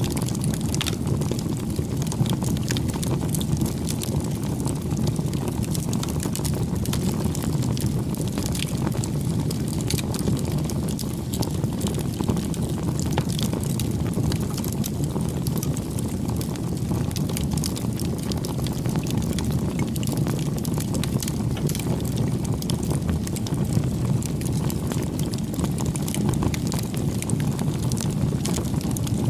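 Wood campfire burning: a steady low rush of flames with frequent sharp crackles and pops of burning wood scattered throughout.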